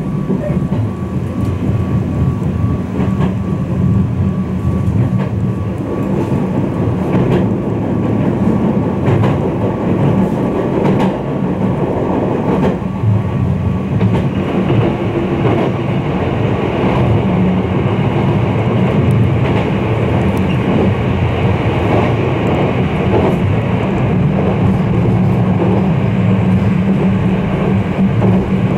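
Izukyu 2100 series 'Resort 21' electric train running between stations, heard from on board: the steady rumble of wheels on the rails with occasional clicks of rail joints. It grows a little louder and brighter about halfway through.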